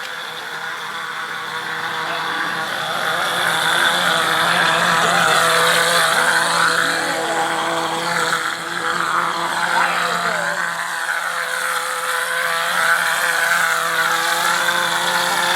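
An engine running steadily, with a higher tone that wavers up and down over it. It grows louder over the first few seconds.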